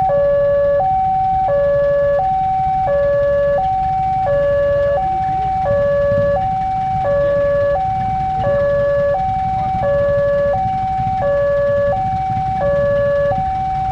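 Railway level-crossing warning alarm sounding: an electronic two-tone signal alternating high and low, about one high-low cycle every second and a half, warning that a train is approaching. A steady low rumble runs underneath.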